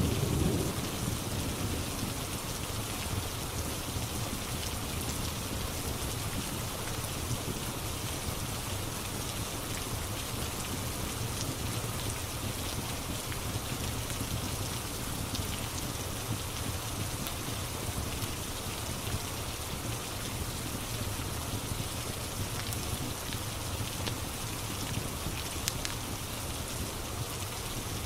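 Steady rain, with a low rumble of thunder right at the start. A few faint crackles, as from a fireplace, come through the rain now and then.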